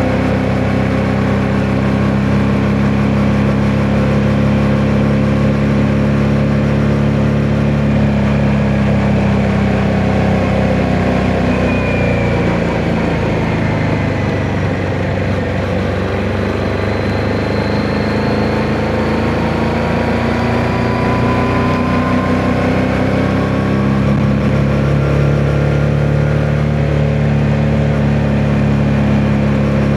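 Yamaha MT-07's parallel-twin engine running under way at a steady note, with a rising note through the middle stretch before it settles back to steady running. Wind noise on the microphone runs underneath.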